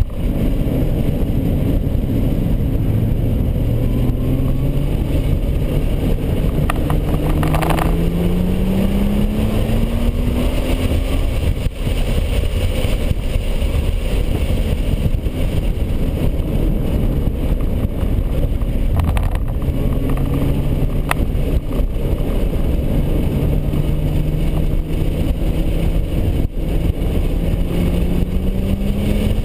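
Nissan GT-R's twin-turbo V6, heard from inside the cabin, rising in pitch under hard acceleration for about ten seconds. It then eases off for several seconds, leaving steady road and wind noise, and pulls hard again, climbing once more near the end.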